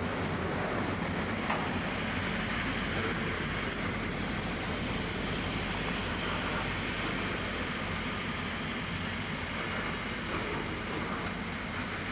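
Long container freight train's wagons rolling past on the mainline, a steady rumble of wheels on rail with a light click about a second and a half in.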